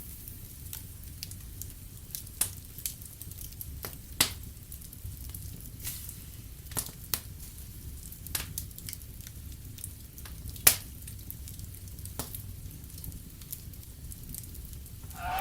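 Wood fire crackling in a fireplace: a low steady rumble with irregular sharp pops, a few of them louder, the loudest about two-thirds of the way through.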